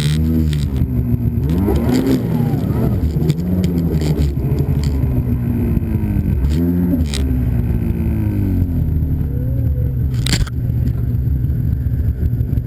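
Snowmobile engine revving up and down while riding, its pitch rising and falling several times, with a sharp knock about ten seconds in.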